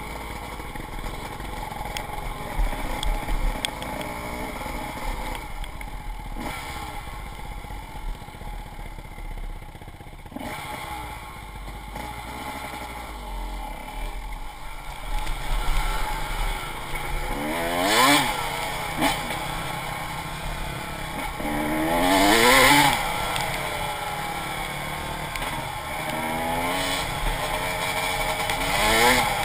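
Dirt bike engine running under throttle, its pitch rising and falling several times as the rider opens and closes the throttle, with the loudest revs a little past the middle.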